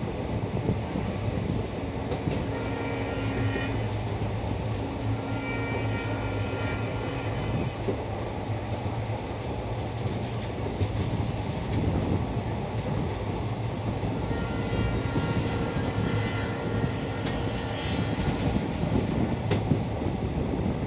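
A train running on its rails: a steady rumble of wheels and cars with scattered clicks, and faint high-pitched tones that come and go.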